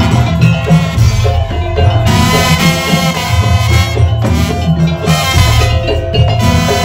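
Madurese daul (tongtong) music: a percussion ensemble with a strong steady beat and a pitched melody line over it.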